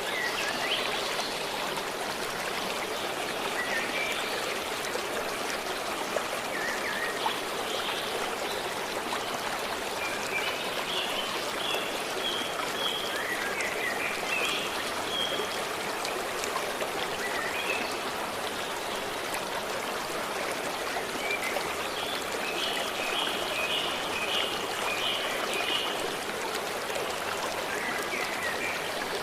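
Forest stream running steadily, with small birds chirping here and there over the water, including a run of quick repeated notes near the end.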